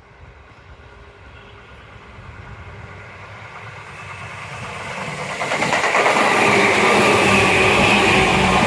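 Tobu Tojo Line electric train approaching and passing, growing steadily louder over about six seconds, then running past at full loudness.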